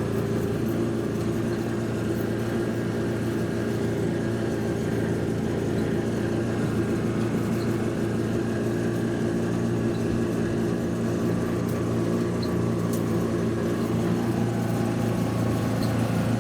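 Quad bike (ATV) engine running steadily at an even pitch.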